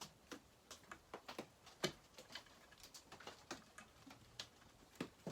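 Faint, irregular clicks and taps of chainsaw parts and hand tools being handled as an anti-vibration mount is worked into line, with one sharper tap a little under two seconds in.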